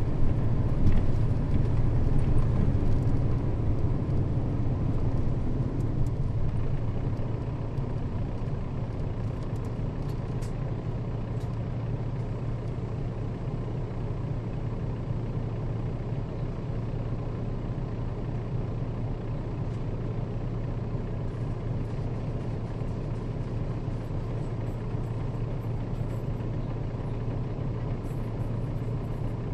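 Nissan Diesel KL-RA552RBN bus engine and running noise from inside the bus, louder for the first several seconds and then falling to a steady, lower hum, as when the bus slows and idles at a stop before moving off.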